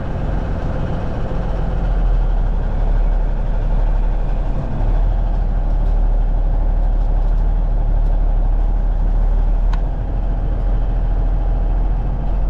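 1989 Kenworth K100E's diesel engine running hard and getting louder about two seconds in, with the Jake brake working once its micro switch is shorted out. This shows the faulty micro switch is why the engine brake would not come on.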